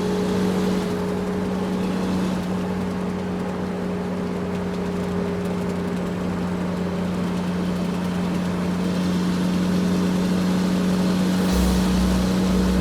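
A motor vehicle running at a steady speed: a constant engine drone over road noise, with a deeper rumble joining near the end.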